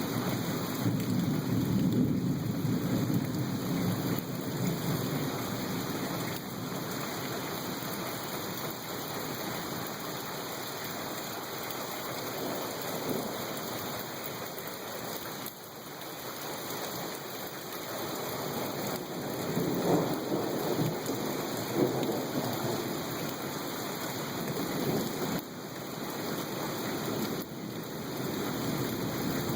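Thunderstorm: steady rain with rolling thunder, loudest in the first few seconds and again about twenty seconds in.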